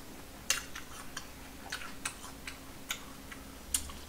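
Chewing with the mouth close to the microphone: irregular small wet clicks and smacks, a few a second, with sharper clicks about half a second in and near the end.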